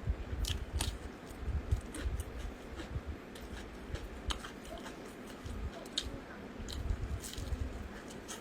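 Close-miked chewing and biting of food, with irregular chewing pulses and scattered short, sharp crisp clicks.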